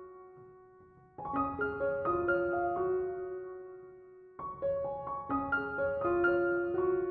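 Slow, gentle piano music: a held chord fades out, then a new phrase of struck notes begins about a second in and another about four seconds in, each note ringing and decaying.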